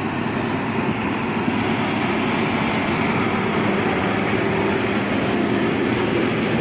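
Diesel truck engine running steadily under load as the truck climbs a slippery hill, a loud even drone.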